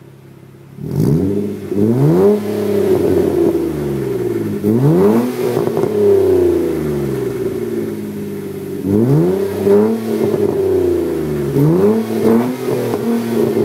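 2003 Nissan Maxima's 3.5-litre V6 revved through an aftermarket exhaust with the resonator deleted and a straight-through Magnaflow muffler. It idles for about a second, then the throttle is blipped about five times, each rev rising and falling back to idle.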